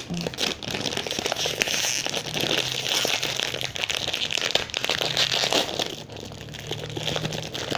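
Plastic wrapper of a packaged chocolate chip muffin crinkling and crackling as it is opened, with a short lull about six seconds in.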